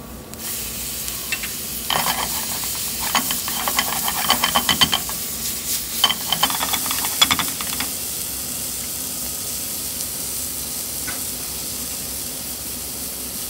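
Chopped tomatoes, onions and spices sizzling in hot oil in a nonstick frying pan. Two spells of rapid clicking and scraping from stirring and tossing fall in the first half, after which only the steady sizzle remains.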